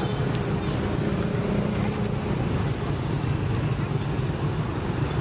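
110cc Honda Win motorcycle engine running steadily at cruising speed, with wind rushing past.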